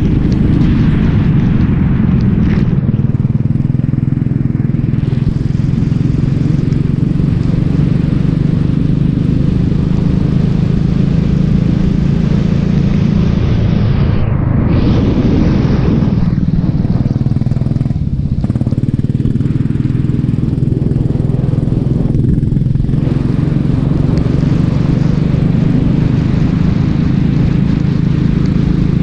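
Racing kart engine running hard with a steady, even note. Its upper edge eases off briefly about halfway through, then for several seconds after, before it comes back full.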